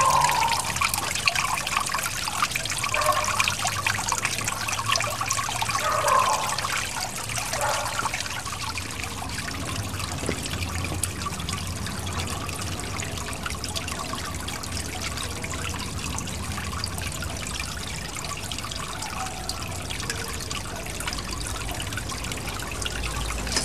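Garden pond waterfall: water trickling and splashing down into the pond in a continuous stream, a little louder for the first several seconds and then steady.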